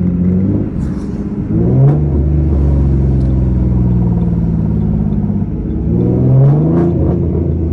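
Ford Mustang V6 on a catted X-pipe with no mufflers or resonators, downshifting: the exhaust note jumps up in pitch as it drops a gear about two seconds in, drones steadily, then rises again near the end. It does not pop.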